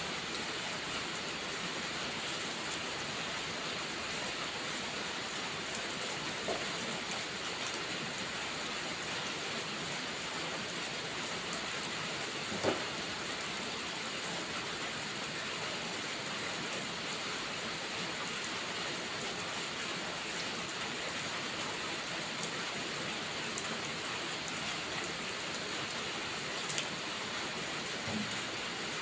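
Steady rain falling, an even hiss with no let-up, with a few isolated sharp pops or clicks; the loudest comes about halfway through.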